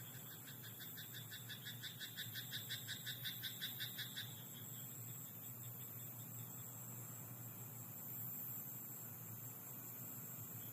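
A frog in a rice paddy calling a rapid series of croaks, about five a second, growing louder over some four seconds and then stopping, over a steady high-pitched hiss of night background.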